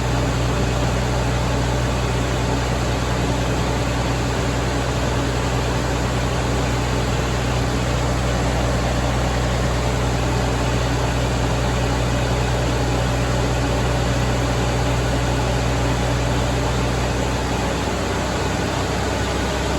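Caterpillar C15 inline-six diesel engine of a Kenworth W900 running steadily under load on a chassis dyno. It is a loud, even drone whose low note shifts slightly near the end.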